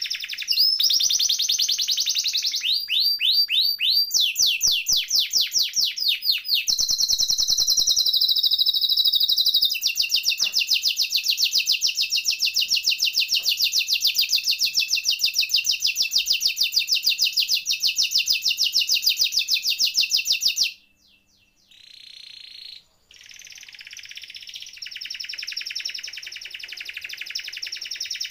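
Domestic canary singing: a long run of fast rolling trills and rapid repeated notes, unbroken for about twenty seconds. The song breaks off for a few seconds near the end, apart from a couple of short phrases, then starts again.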